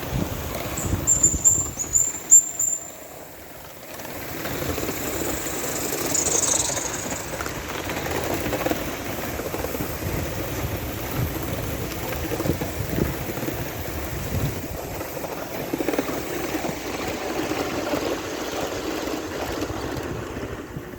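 Aster Battle of Britain class live-steam model locomotive running at express speed around the track, with steam hiss and running noise. The first few seconds have loud peaks and brief high squeals, and a steady run follows.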